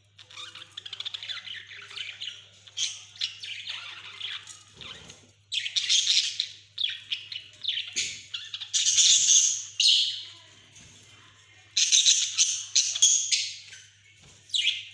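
Pet budgerigars chattering and warbling, broken by several bouts of loud, harsh squawking.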